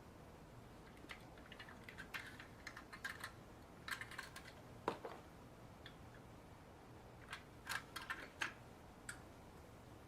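Scattered faint clicks and taps of hard plastic as a toy helicopter is handled and its opening parts moved, with one sharper click a little before the middle.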